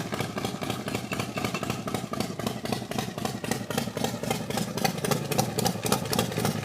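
Motorcycle engine idling with a steady, rapid beat.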